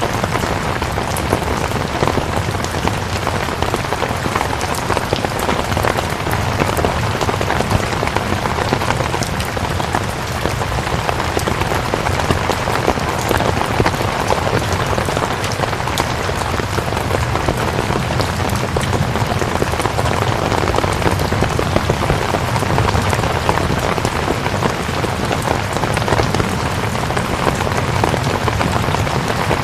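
Steady rain, a dense even hiss across the whole range, flecked with many small sharp drop hits.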